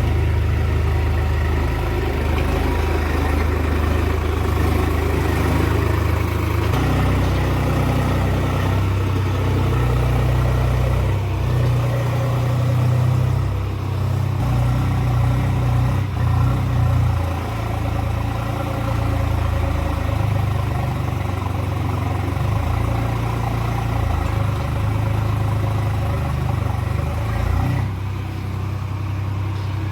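Tractor engine running steadily, its note stepping up about seven seconds in and shifting again some seconds later.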